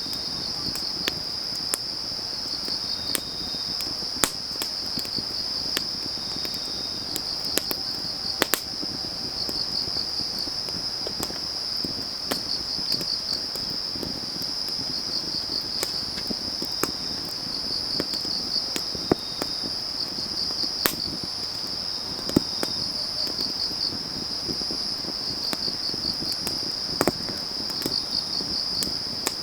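Crickets chirping in a steady, pulsing high trill, with a wood fire crackling in scattered sharp snaps and pops, the loudest of them about 4, 8.5, 21, 22 and 27 seconds in.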